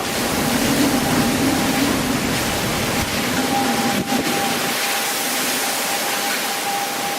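Hurricane-force wind and driving rain making a loud, steady rushing noise, with a thin high whistle held throughout.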